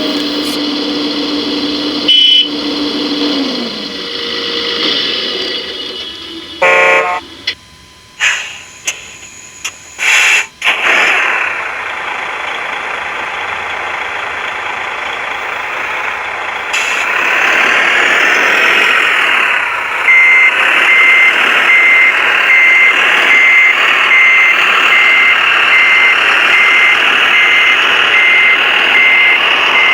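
Scale RC trucks and machines at work: the whine of small electric drives and clatter, a short horn blast about seven seconds in, and from about twenty seconds on a steady electronic reversing beep, a little over one beep a second, from a truck's sound module.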